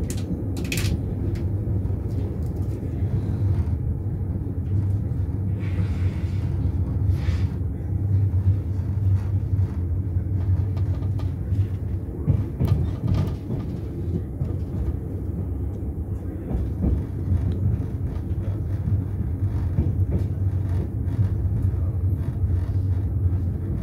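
Steady low rumble of an Enterprise passenger train running on the rails, heard from inside the carriage, with a few sharp clicks and knocks along the way.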